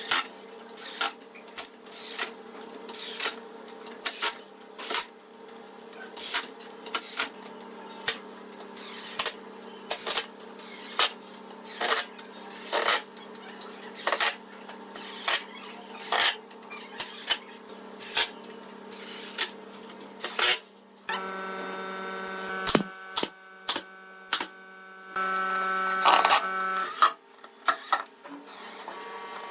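Workshop hand-tool work: a string of sharp knocks or taps, about one or two a second, over a steady hum. About two-thirds of the way through, a small power tool runs for roughly six seconds with a steady tone, then the knocking resumes.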